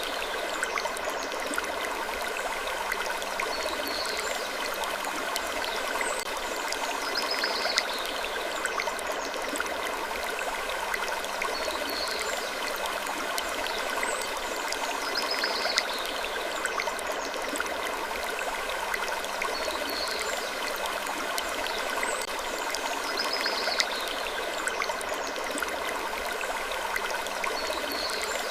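Steady, even rushing noise like flowing water, with short faint high-pitched sounds recurring every two seconds or so.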